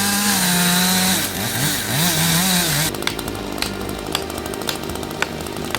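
Chainsaw engine running, held steady and then revving up and down. About three seconds in, the engine note drops away into a rougher rattle with several sharp cracks.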